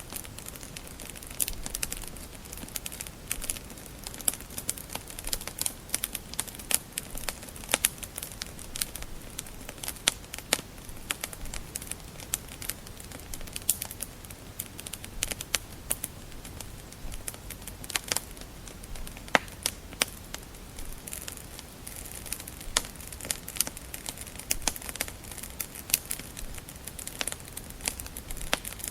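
Wood fire crackling: irregular sharp pops and snaps from burning logs, several a second, over a low steady hiss of flames.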